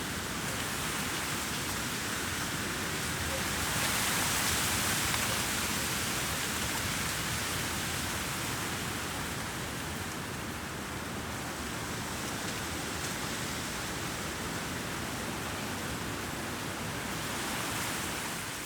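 A steady rushing noise with no distinct events, swelling a little about four seconds in.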